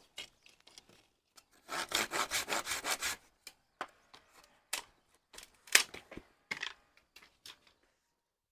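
Hand saw cutting wood in a quick run of back-and-forth strokes for about a second and a half, followed by scattered knocks and taps of wood being handled.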